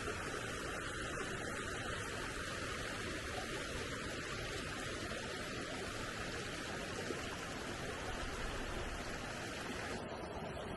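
Steady rushing of a flowing stream. The higher hiss drops out suddenly near the end.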